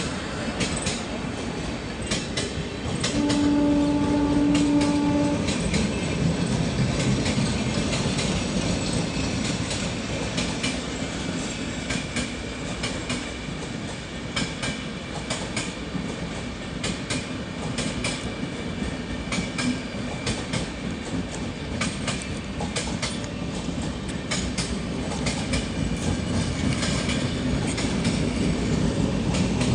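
Jhelum Express passenger train running slowly as it slows down, wheels clattering rhythmically over the rail joints. A single horn blast of about two seconds comes a few seconds in.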